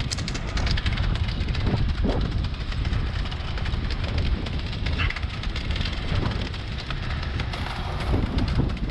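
Heavy construction machinery at a concrete slab pour running steadily, with wind rumbling and crackling on the microphone.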